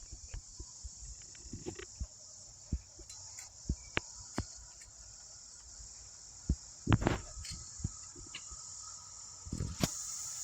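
Insects chirring in a steady, high-pitched drone, with scattered clicks and knocks, the loudest about 7 seconds in.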